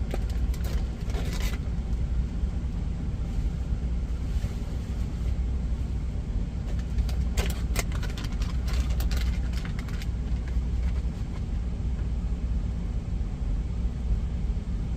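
A truck's diesel engine idling with a steady low rumble. Brief clatter and scraping of handled cookware and food about a second in and again from about seven to ten seconds.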